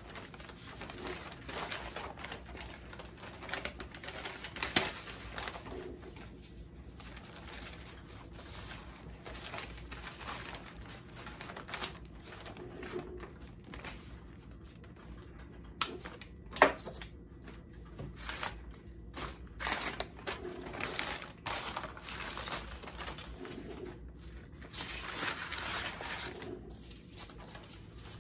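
Scattered irregular clicks and taps with rustling, as of objects being handled; one click about two-thirds of the way through is the loudest.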